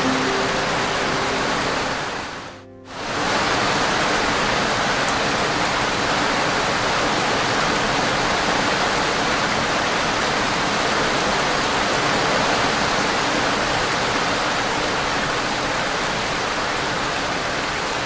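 Steady rain hiss that dips briefly, fading out and straight back in about two and a half seconds in.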